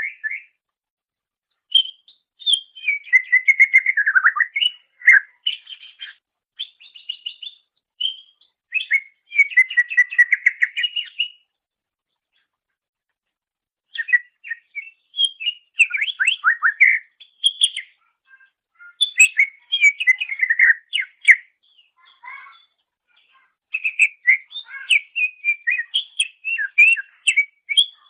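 Cucak ijo (green leafbird) singing: phrases of rapid, varied warbling and whistled notes, broken by pauses of a couple of seconds, with a long unbroken stretch near the end.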